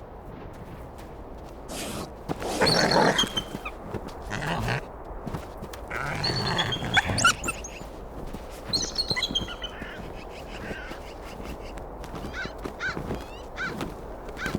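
Scavenging animals calling at a carcass: loud, harsh calls about two seconds in and again around six to seven seconds, then a run of short, high chirps near the end.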